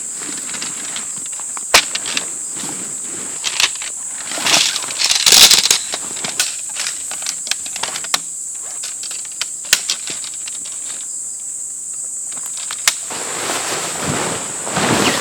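A steady high-pitched insect chorus, with scattered sharp clicks and a brief burst of rustling handling noise about five seconds in.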